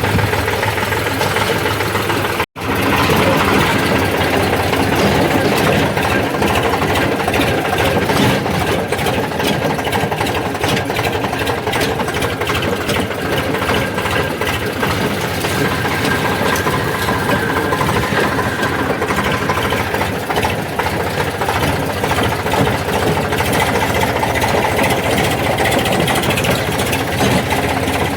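Eicher 485 tractor's diesel engine running steadily, with a momentary break in the sound about two and a half seconds in.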